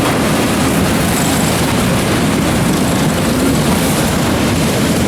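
Engines of a field of mini wedge race cars running at speed on a dirt oval, a steady loud engine din.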